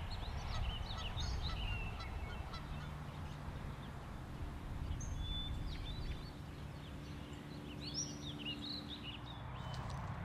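Birds chirping and calling in short scattered bursts, in two clusters near the start and toward the end, over a low rumble. A soft, steady low drone comes in a few seconds in.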